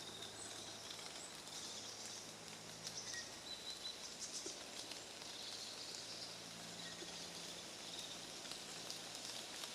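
Faint woodland ambience: a steady hiss with a few short, faint bird chirps, over a faint low steady hum.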